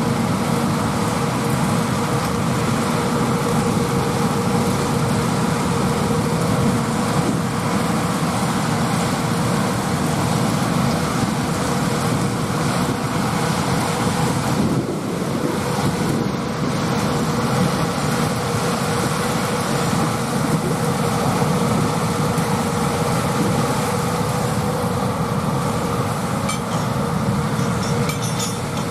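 Peanut harvesting machinery working: John Deere 8R tractors pulling Amadas peanut pickers, running steadily with a constant mechanical din and a steady whine.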